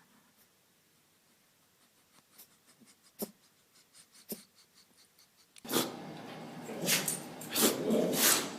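Faint scattered clicks and taps. Then, about two-thirds of the way in, a dog starts sneezing: four sharp sneezes in quick succession, much louder than what came before.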